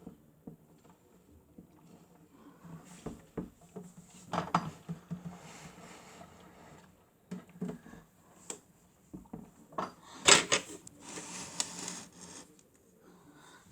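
Miele W1 toy washing machine working through its wash cycle: irregular small plastic clicks, knocks and rubbing, with short swishes about five seconds in and again past ten seconds, the sharpest click just after ten seconds.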